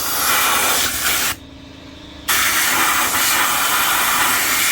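Compressed-air blow gun hissing in two long blasts, with a break of about a second between them, blowing water out of an engine.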